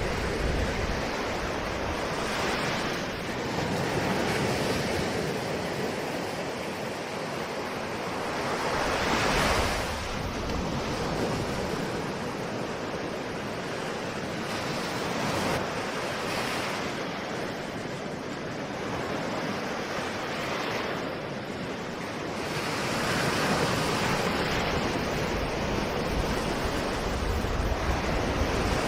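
Ocean surf: a continuous wash of waves, swelling as a wave breaks every several seconds and then falling back.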